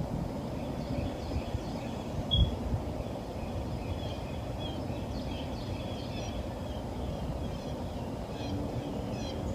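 Small songbirds chirping, with quick high chirps coming thicker from about four seconds in, over a steady low rumble. A single thump sounds a little after two seconds.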